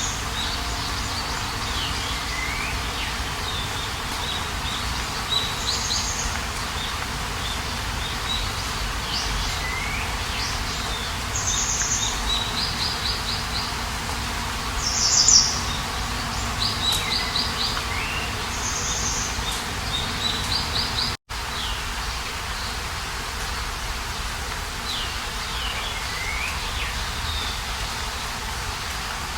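Wild birds singing outdoors: repeated high chirps, short falling whistles and quick trills recurring every few seconds over a steady background hiss of outdoor noise. The sound cuts out for an instant about two-thirds of the way through.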